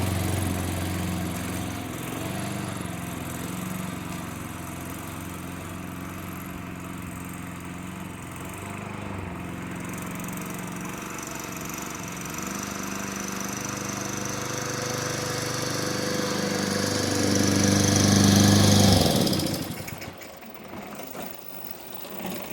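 Toro lawn mower's 6.5 hp Tecumseh engine running steadily, now that its cleaned carburetor has it going again. The engine gets quieter, then louder, and cuts off suddenly about nineteen seconds in.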